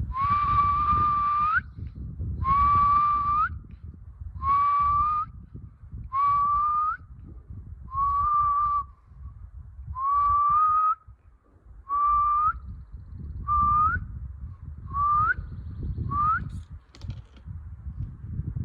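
A person whistling about ten breathy notes, each held on one pitch and ending in a quick upward flick, the notes growing shorter toward the end.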